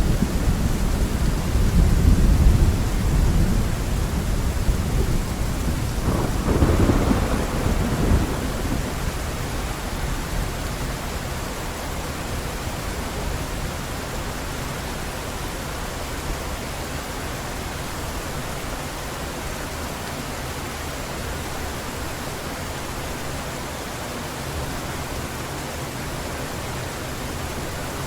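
Heavy rain falling steadily with thunder rumbling in the first few seconds, swelling again around six to eight seconds in, then dying away to leave only the even hiss of the downpour.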